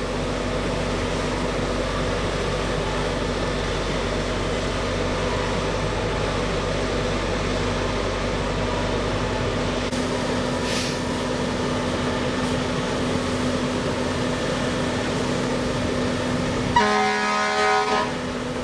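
Fire truck engines running with a steady drone. About seventeen seconds in, a fire apparatus air horn sounds one blast of about a second.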